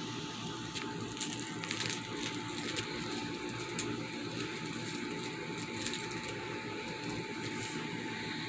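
Cat licking and grooming with its tongue: soft, irregular rasping clicks over a steady electrical hum with a faint constant tone.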